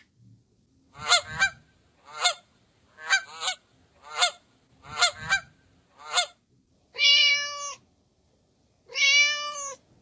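Canada goose honking: about ten short, harsh honks, some in quick pairs. Near the end a cat gives two long meows about two seconds apart.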